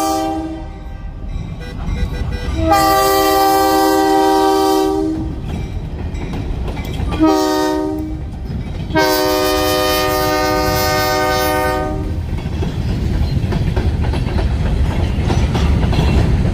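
Locomotive horn blowing the grade-crossing signal: the end of one blast, then long, short, long, each a chord of several steady tones. After the last blast the train's low rumble and wheel clatter build as it passes.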